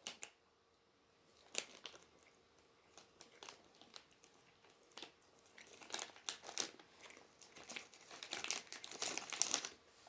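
Packaging of spicy snack salami sticks crinkling and tearing as it is handled and opened, with a few scattered crackles at first and a dense run of crinkling in the second half.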